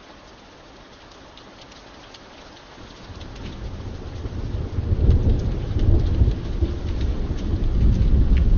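Steady rain with scattered sharp drip ticks. About three seconds in, a deep rumble of thunder builds up and rolls on loudly through the rest.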